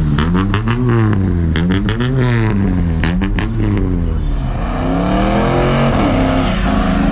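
A vehicle engine revved again and again, its pitch climbing and dropping about twice a second, with clusters of sharp cracks about two and three seconds in. After about five seconds it settles into a steadier run with gentle rises and falls in pitch.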